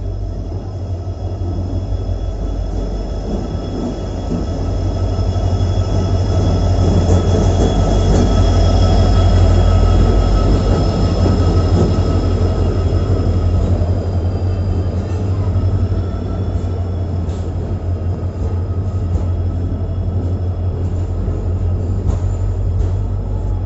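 Passenger train running on the track: a heavy, steady low rumble with a continuous high-pitched wheel squeal on top. Several sharp clicks come in the last part.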